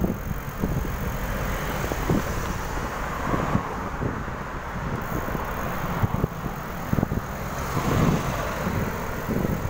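Wind buffeting the microphone during a bicycle ride: a steady low noise broken by irregular thumps, with road noise underneath.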